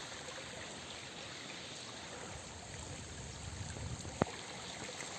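Steady rush of a clear mountain stream flowing over rocks, with a single sharp tap about four seconds in.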